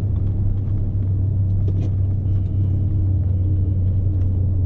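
Scania S520's V8 diesel engine running steadily under a load of about 44 tonnes, heard from inside the cab as a low, even rumble.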